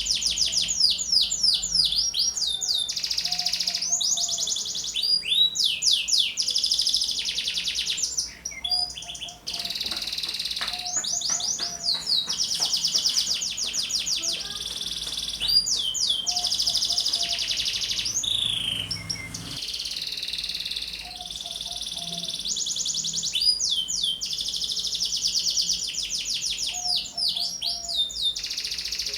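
Domestic canary singing, high-pitched: long runs of very rapid trills and rolls, with short pauses about eight and twenty seconds in.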